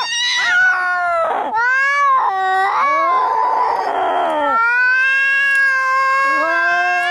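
Angry cats caterwauling: long, drawn-out yowls that bend up and down in pitch, with a harsh, rasping screech in the middle and a second yowl overlapping near the end.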